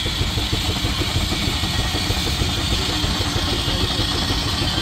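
An engine running steadily with a fast, even pulsing, under a high hiss that stops suddenly at the very end.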